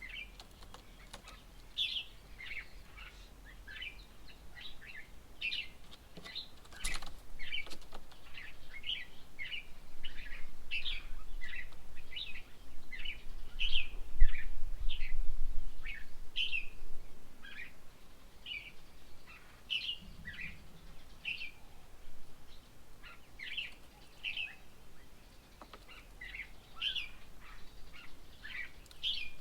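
Birds chirping: many short, high calls following one another quickly and overlapping, with a sharp click about seven seconds in.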